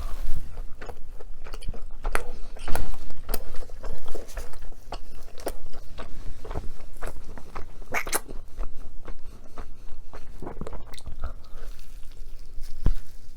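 Close-miked eating: a person biting and chewing food, with irregular crisp crunches and mouth sounds; a few bites stand out louder.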